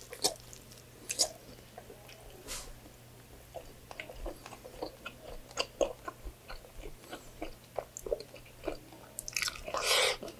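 Close-up chewing of a mouthful of rice and pork adobo eaten by hand, with many short wet mouth clicks and smacks, and a louder breathy sound of about a second near the end.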